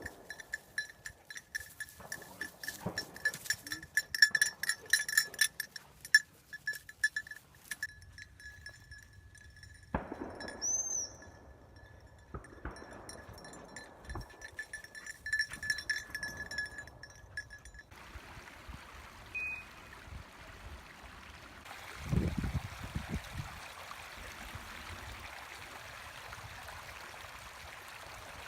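Small bell on a bird dog's collar jingling irregularly as the dog moves, in spells that stop about 8 seconds in and again about 18 seconds in. A steady hiss follows.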